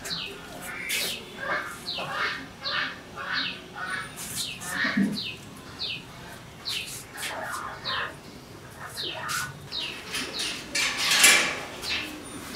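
Birds calling: many short, falling chirps, with harsher calls mixed in. A louder, harsher burst comes about eleven seconds in.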